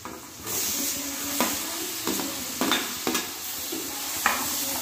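Chopped tomatoes dropped into hot oil and masala in a stainless steel kadhai, sizzling from about half a second in, while a metal slotted spoon knocks and scrapes against the pan several times as it stirs.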